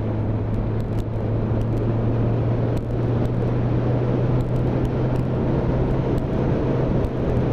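Motorcycle engine running at a steady cruising speed with wind and road rush, heard from on the moving bike. It is a constant low hum with little change in pitch.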